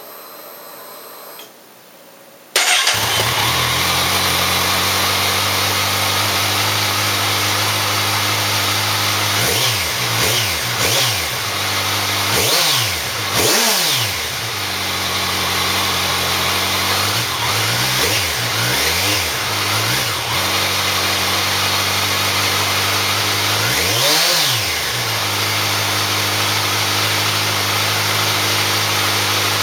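Kawasaki Ninja 1000's inline-four through a Yoshimura aftermarket exhaust, starting up about two and a half seconds in and settling to a steady idle. The throttle is blipped several times, each rev rising and falling quickly, the last about twenty-four seconds in.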